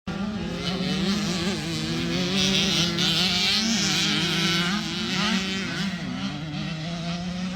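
Several 85cc two-stroke motocross bikes racing, their engines buzzing at different pitches and revving up and down as they go.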